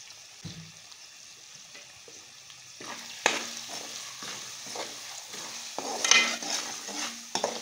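Onion-and-spice masala sizzling in hot oil in a metal pot. About three seconds in, a metal spatula starts stirring, scraping across the pan bottom in repeated strokes over the frying.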